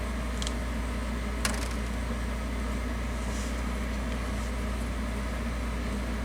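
Steady low mechanical hum, like a fan or air-conditioning unit, with a single sharp tick about a second and a half in.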